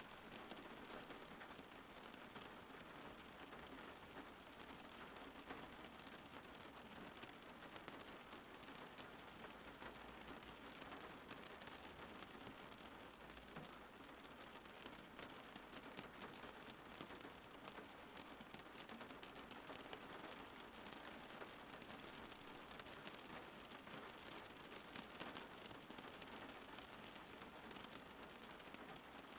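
Faint, steady rain falling: an even hiss flecked with many small drop ticks.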